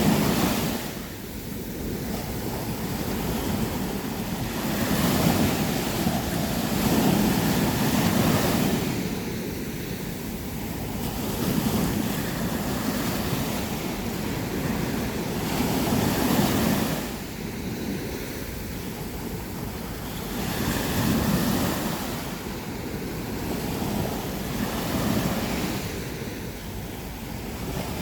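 Sea waves breaking on a sandy beach, the surf swelling and falling back every few seconds, with wind buffeting the microphone.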